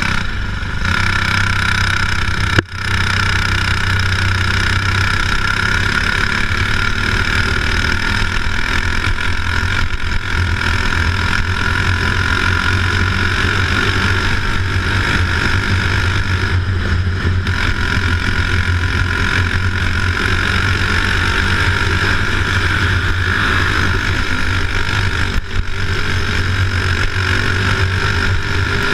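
A vehicle engine running steadily, a continuous low drone.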